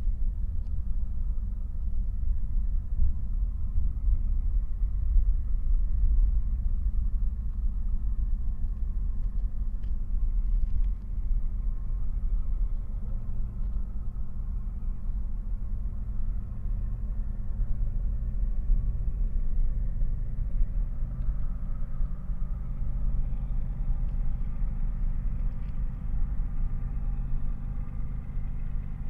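Freight train rumbling past: a steady, continuous low rumble, with faint engine tones coming up in the last third.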